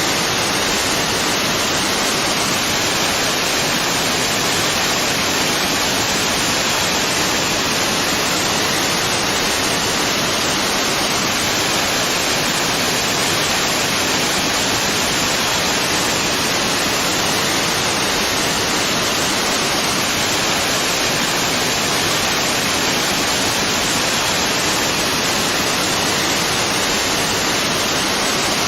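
Waterfall rushing with a steady, even hiss.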